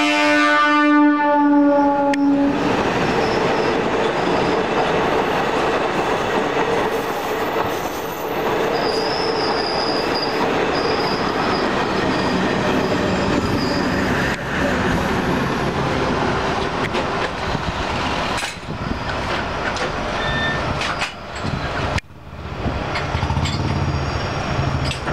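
CNG-diesel DEMU train sounding its horn, which cuts off about two and a half seconds in. Then the passing coaches rumble steadily on the rails with clickety-clack. After a sudden break near the end, a lower steady rumble follows.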